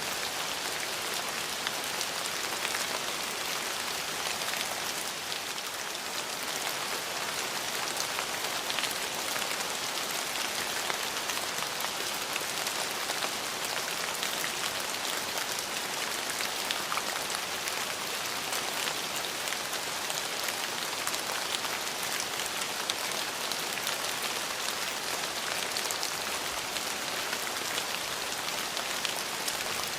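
Steady rain falling on hard surfaces, an even hiss with many fine drop ticks throughout.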